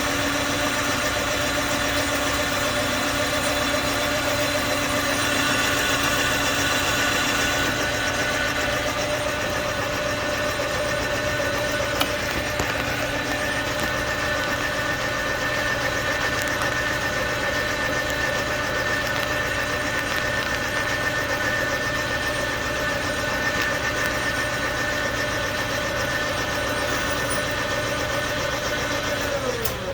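Metal-cutting machine tool running steadily while boring out the hole in a pulley, a constant hum with a held whine. Near the end it is switched off and its pitch falls as it spins down.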